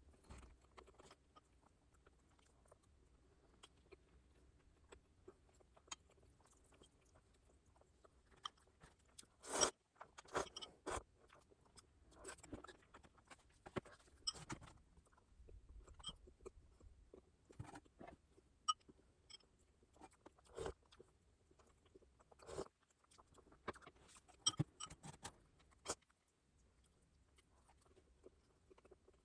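Close-miked eating sounds: chewing and biting food, with scattered crunches and small clicks, the loudest about ten seconds in.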